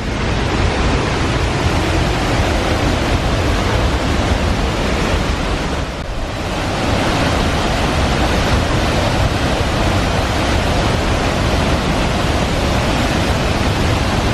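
Waterfall's falling water making a loud, steady rush of white noise, with a brief dip about six seconds in.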